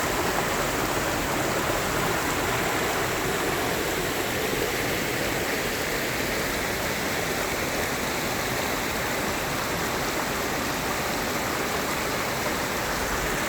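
A stream running steadily, a constant rushing of flowing water.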